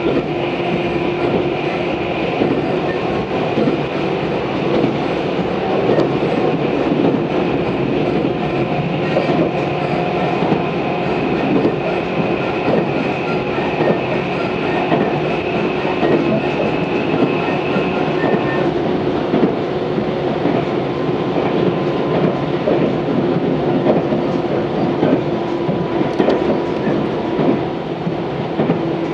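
Tobu 634 series electric train running between stations: a steady hum and whine from the running gear over wheel-on-rail rumble, with clicking over rail joints. A high whine drops out about two-thirds of the way through.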